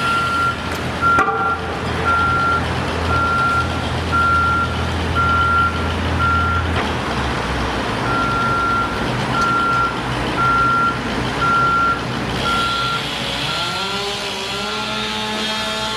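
Reversing alarm of a construction vehicle beeping about twice a second, with a short break partway through, over the vehicle's engine running; near the end the engine revs up, its pitch rising.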